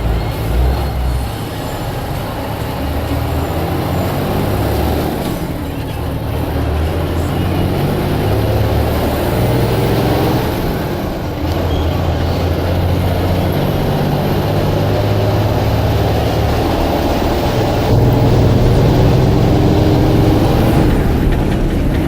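Blue Bird All American bus's diesel engine running under way, its pitch climbing and dropping as it pulls through the gears, with a step louder about eighteen seconds in.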